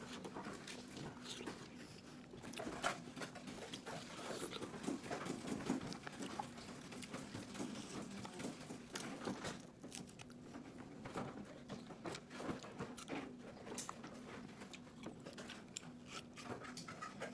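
Watermelon being eaten: wet chewing and biting with scattered irregular clicks and smacks. A faint steady hum runs underneath.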